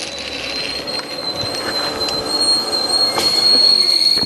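Zipline trolley pulleys running along the steel cable: a steady high-pitched metallic whine over rushing noise, growing louder toward the end.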